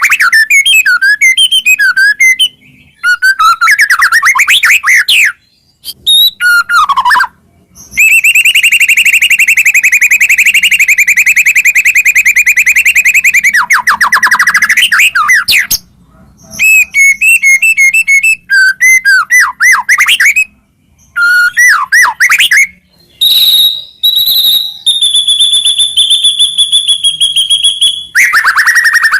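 White-rumped shama singing a loud, varied song of whistled phrases and rapid chattering trills, with one long steady trill lasting about six seconds in the middle and another held higher trill near the end.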